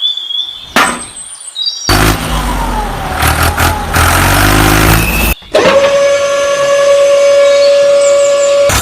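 Edited vehicle sound effects. Faint gliding whistles and a click come first, then a vehicle engine runs from about two seconds in. After a brief gap, a steady held tone lasts about three seconds.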